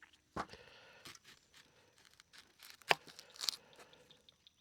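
An onion being peeled and cut with a knife: faint crackling and tearing of its dry papery skin, with a few sharp knife clicks, the loudest about three seconds in.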